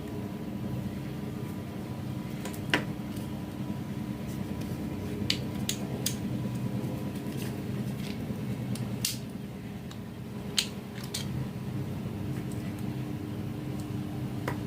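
Scattered sharp clicks and light taps from a hand-operated can-seamer key being handled and worked on during its repair, over a steady low hum.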